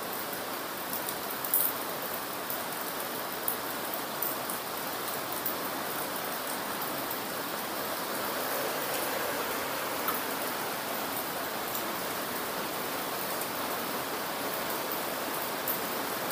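Heavy rain falling outside, heard from inside a room as a steady hiss with a few faint sharp ticks of drops.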